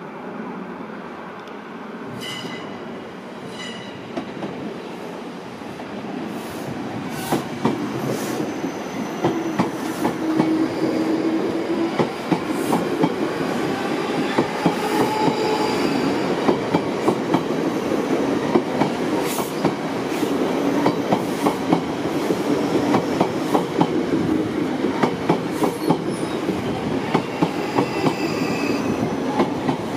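South Western Railway electric train running through the station, its wheels clacking over rail joints with occasional brief wheel squeal; the rumble grows louder over the first half and then holds.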